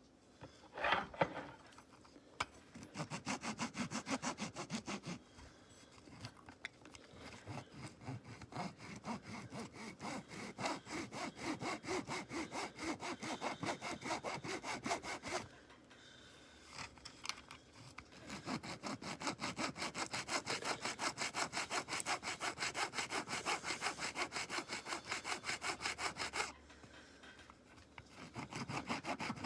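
Hand sawing: rapid, even back-and-forth strokes, about four a second, in several runs broken by short pauses.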